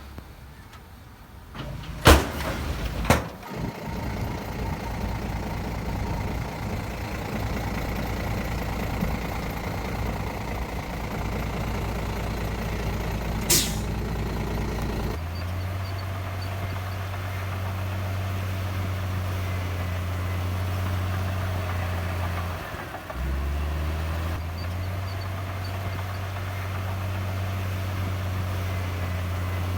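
Heavy diesel engine of earthmoving machinery running steadily, with three short sharp bursts near the start and about a third of the way in. About halfway through, its note drops to a deeper, even hum; it dips for a moment and then picks up again.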